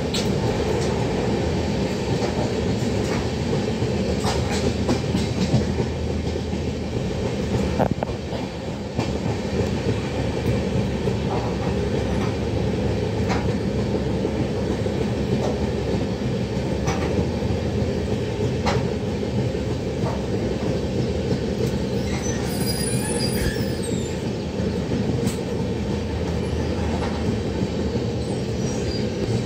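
Kashi Vishwanath Express passenger train running at speed, heard from on board: a steady rumble of wheels on the rails with scattered sharp clicks at uneven intervals.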